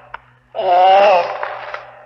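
An animal's drawn-out pitched call, starting about half a second in, loud at first and then trailing off.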